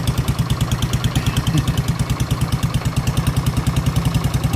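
Vehicle engine idling with a rapid, even putting pulse, an odd-sounding idle that the owner finds funny and worth having fixed.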